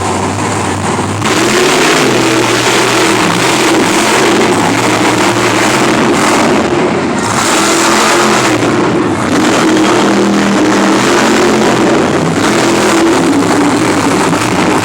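Monster truck engine running loud, revving up and down. It gets louder about a second in.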